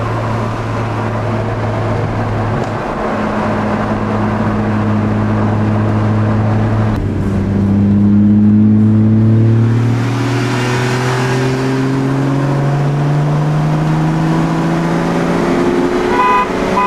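Car engine at full throttle in a high-speed pull, its pitch climbing slowly through the gears with a shift about seven seconds in. A string of short beeps comes near the end.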